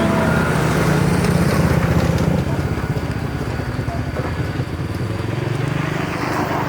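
A motorbike engine running close by, its note rising over the first couple of seconds, easing off, then rising again near the end.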